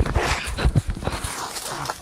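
Cats scuffling in a fight: a fast, irregular run of thumps and scratchy knocks, with no yowl in it.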